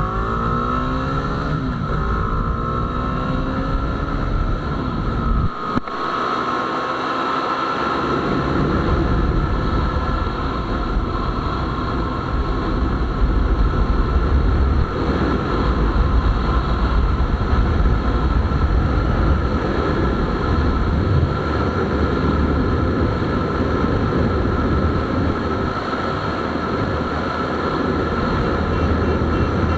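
Bajaj Dominar 250's single-cylinder engine accelerating hard at highway speed, its note climbing in the first couple of seconds. After a brief break near six seconds, heavy wind rush on the microphone takes over, with the engine note running steadily underneath.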